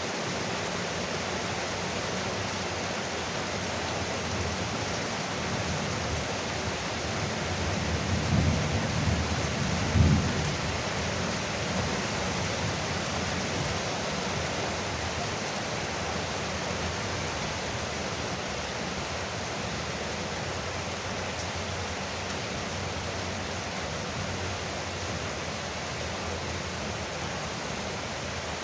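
Heavy rain falling steadily on a porch roof, an even hiss. About eight seconds in a brief low rumble of thunder swells, peaking in a short sharp crack near ten seconds.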